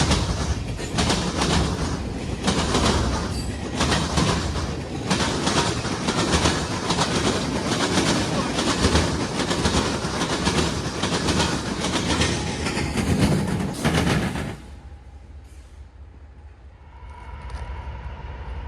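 A train's cars rolling past close by, the wheels clicking over rail joints in a steady stream of clacks. About fourteen seconds in the noise drops off suddenly, and a faint steady tone comes in near the end.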